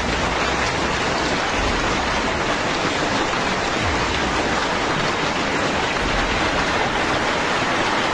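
A steady, even rushing noise like running or splashing water.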